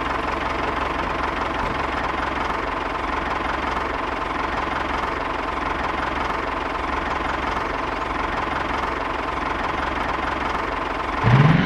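Tractor engine running steadily with a knocking chug. Near the end a louder sound rising in pitch cuts in.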